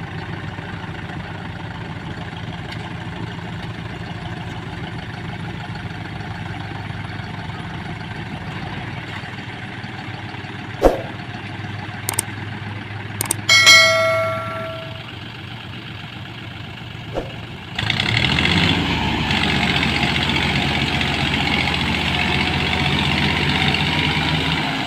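Deutz-Fahr Agrolux 50 tractor's diesel engine idling steadily. A few sharp clicks and a short metallic ring come about halfway through. Then, a few seconds later, the engine suddenly gets louder and fuller as it revs up.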